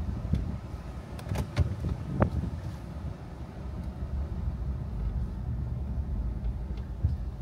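Car driving, a steady low rumble of engine and road noise, with a few sharp clicks or knocks in the first couple of seconds.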